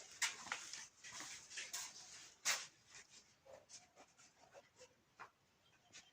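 Faint scuffling and scratching noises, with a few short soft whines from a dog about halfway through.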